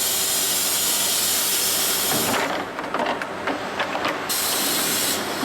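Compressed air hissing from a double-head seamless uPVC window welding machine in two long bursts. Clicks and knocks fall in the gap between the bursts, about two seconds in.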